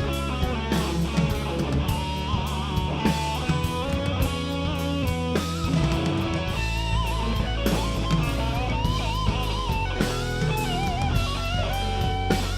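Live rock band playing an instrumental passage: an electric guitar lead with bent, wavering notes over bass guitar and a drum kit keeping a steady beat.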